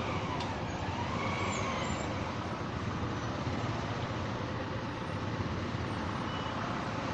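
Steady traffic noise on a busy road: vehicle engines and tyre rumble.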